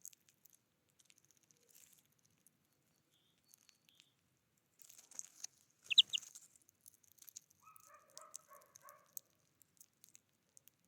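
Birds calling: a sharp double note about six seconds in, then a short run of lower, repeated notes among scattered faint high clicks.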